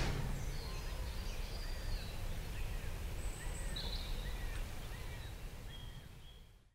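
Outdoor ambience of birds chirping, a run of short repeated chirps about twice a second with a few higher calls, over a steady low rumble. The sound fades out near the end.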